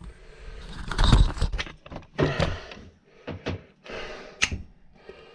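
Irregular clicks, clinks and rustling of carburetor parts and hand tools being handled during a motorcycle carburetor teardown, with a sharp click near the end.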